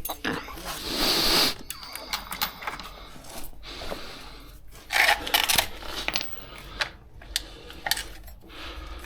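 Metal hand tools clinking and rattling as they are handled, with scattered sharp clicks and two louder scraping or rummaging noises, one about a second in and one about five seconds in.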